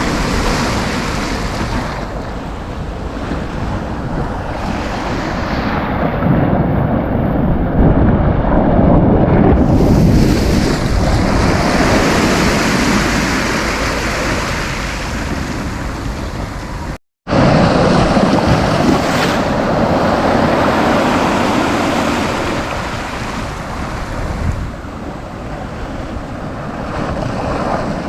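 Sea waves breaking and washing up the beach, the surf swelling and easing in slow surges, with wind rumbling on the microphone. The sound cuts out completely for a split second about two-thirds of the way through.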